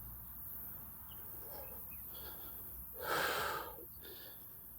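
A person's short, sharp breath out about three seconds in, over a faint low rumble.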